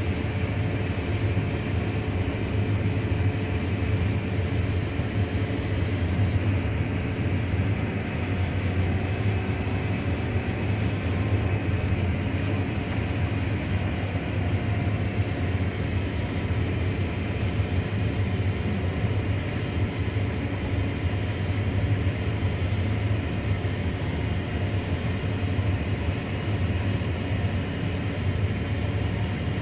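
Combine harvester running steadily while harvesting wheat, heard from inside the cab: a constant low engine hum under the broad noise of the threshing machinery.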